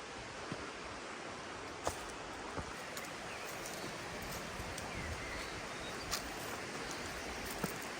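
Steady rustling hiss with a few scattered light clicks and taps.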